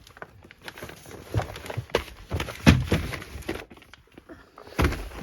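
Handling noises as a boxed firework cake is taken out and moved about: irregular knocks and rustling of cardboard and wrapping, the sharpest knock a little before the middle.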